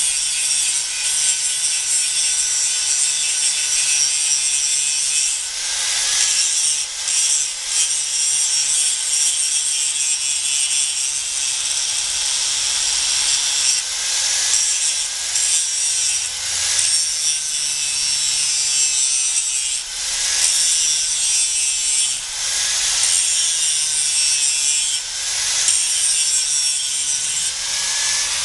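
Angle grinder grinding the steel of a hand-forged axe head, a continuous harsh high-pitched grind whose pitch wavers and eases off briefly every few seconds as the disc is pressed and lifted.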